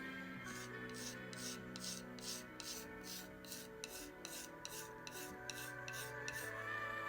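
Rhythmic rasping strokes of a hand tool scraping over unfired clay, about three strokes a second, stopping near the end, over soft background music.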